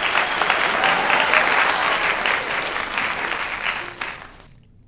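Applause: a crowd clapping, dense and steady, which dies away about four seconds in.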